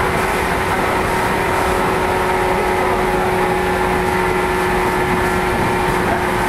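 JR 115 series electric train's running noise: an even rumble with a steady hum that holds one pitch.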